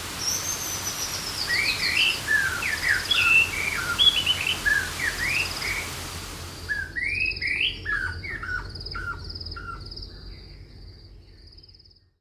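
Several birds chirping and trilling: short rising and falling chirps and fast high trills over a steady hiss. The hiss cuts off suddenly about seven seconds in, and the birdsong then fades out to silence near the end.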